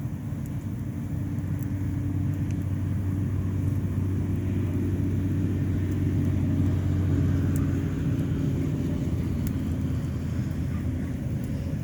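A motor engine running with a steady low hum that grows louder toward the middle and eases off near the end, with a few faint sharp ticks over it.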